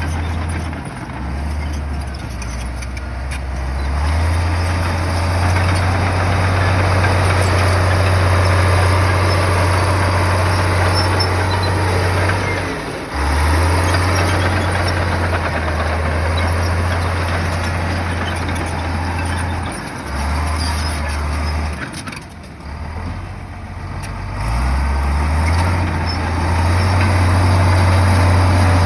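Heavy diesel engine of an earthmoving machine working, its low engine note stepping up and down as the load changes, with several short dips where it eases off.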